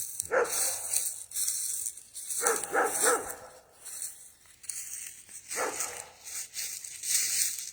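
Dogs barking in short, separate barks: one just after the start, three in quick succession around three seconds in, and another past the middle.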